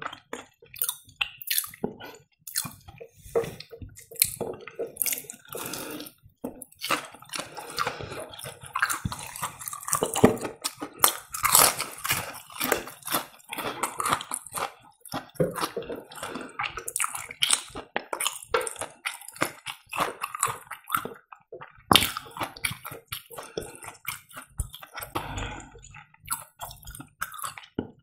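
Close-miked chewing of breaded fried cheese: wet, sticky mouth sounds and lip smacks, with frequent short clicks and some crunching of the crumb crust.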